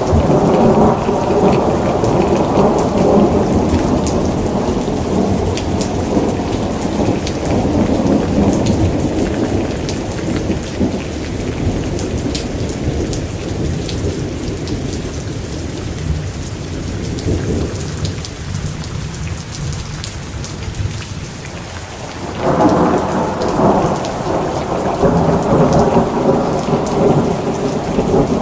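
Steady rain with rolling thunder. A long rumble dies away over the first twenty seconds, then a new roll of thunder breaks in suddenly about 22 seconds in.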